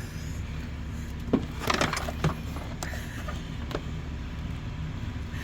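A short run of sharp clicks and light rattles from handling hard parts, about a second and a half in, followed by two single clicks, over a steady low rumble.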